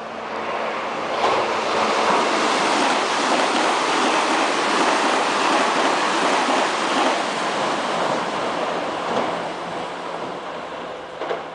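Meitetsu electric train passing through the station at speed: a rushing roar of wheels on rails that builds over the first second or two, holds, and dies away near the end.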